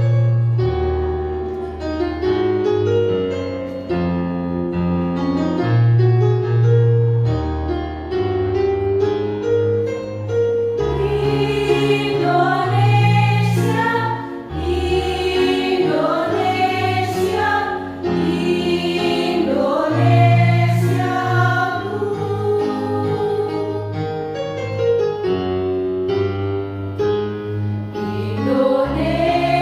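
Choir singing with keyboard accompaniment: the keyboard plays chords and a bass line alone at first, and the choir comes in about a third of the way through.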